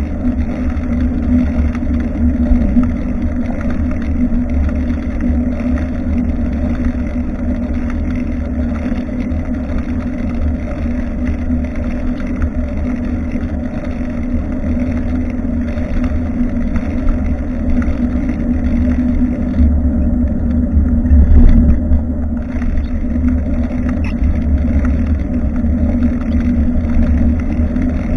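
Wind buffeting and road rumble picked up by a bicycle-mounted action camera's microphone while riding: a steady deep rumble with a constant hum under it, the rumble swelling about twenty seconds in.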